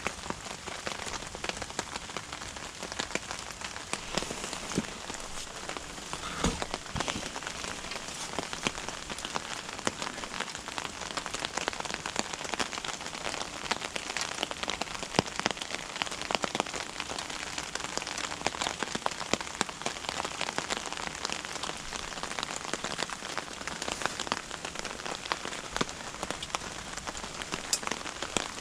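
Rain pattering steadily: a dense, even patter of fine drops with no let-up.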